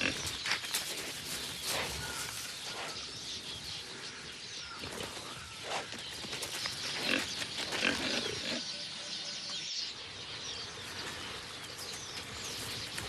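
Warthog grunting in short, irregular grunts.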